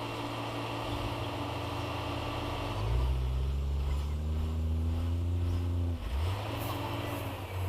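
Heavy diesel engine running steadily. About three seconds in it gets louder and deeper, then climbs slowly in pitch, as under load. Near six seconds it dips sharply, then settles back to a steady run.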